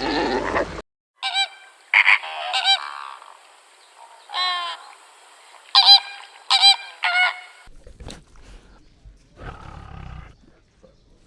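Geese honking: a run of short, pitched honks over about six seconds, several in quick pairs, then fading to faint background near the end.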